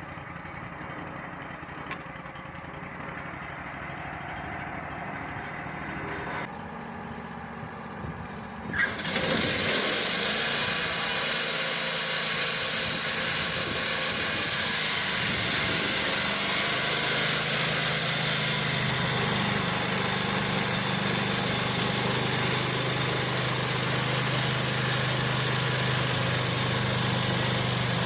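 Wood-Mizer LT35 band sawmill's engine running at low speed, then about nine seconds in it jumps to a much louder, steady whir with a strong hiss as the mill goes to full throttle with the band blade running. A deeper steady engine hum joins later.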